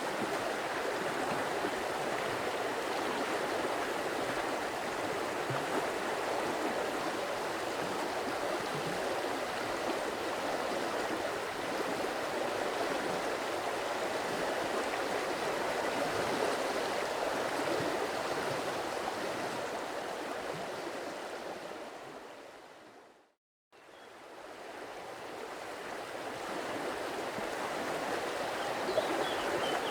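Stream water flowing steadily over stones, an even rushing burble. A little past two-thirds through it fades out to a moment of silence and fades back in, and a few faint high chirps come near the end.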